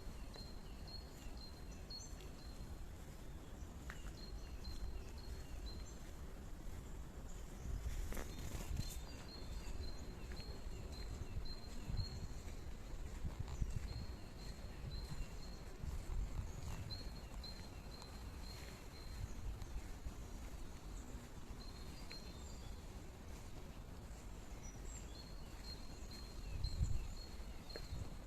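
Small birds chirping, repeated short high notes in runs with brief gaps, over a steady low rumbling background noise.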